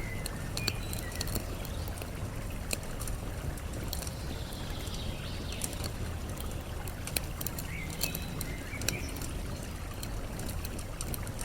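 Campfire crackling with scattered sharp pops over a steady rush of running water, with a few short bird chirps.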